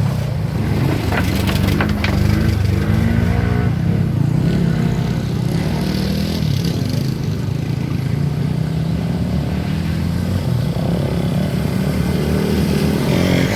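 Off-road motorcycle engines running, revving up and down in the first several seconds, then holding a steadier note.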